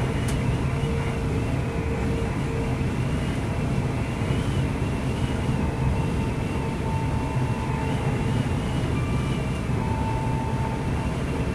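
Class 185 diesel multiple unit running, heard from inside the carriage: a steady low rumble from its underfloor Cummins QSK19 diesel engine and wheels on the track, with a thin high whine that wavers slightly in pitch.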